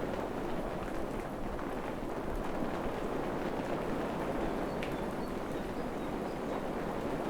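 Steady rain falling in a forest, an even dense patter with a few sharper drops. A faint run of short high chirps comes in about halfway through.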